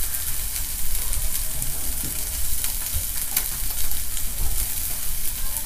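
Eggplant slices and wiener sausages sizzling on a hot plate: a steady hiss with scattered small crackles of spitting fat.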